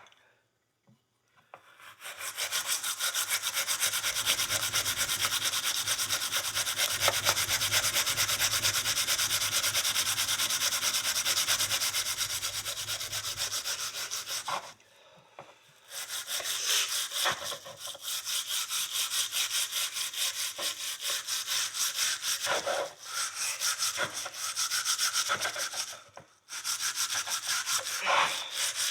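Steel wool scrubbed rapidly back and forth over a horseshoe, scouring dirt off the metal. The fast scratchy strokes start about two seconds in and stop briefly twice.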